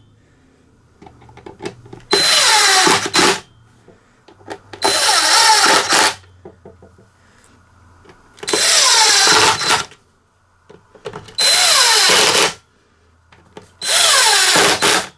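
Cordless drill-driver running in five bursts of about a second each, driving T27 screws through the plastic cowling.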